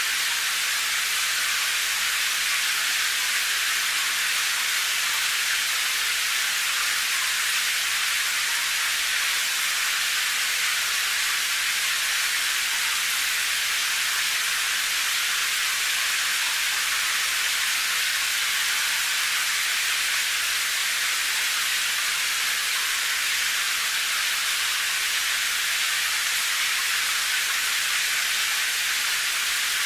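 Steady rain: an even, unbroken high hiss with no single drops or changes standing out.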